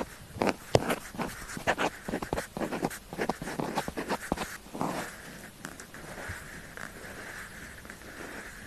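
Pen nib writing on paper: quick scratchy strokes and small ticks for the first half, then a steadier continuous scratching from about five seconds in.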